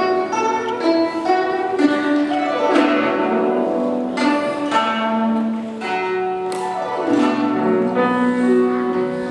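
Guzheng playing a run of plucked, ringing notes, with sliding downward glissandos about two and a half seconds in and again near seven seconds.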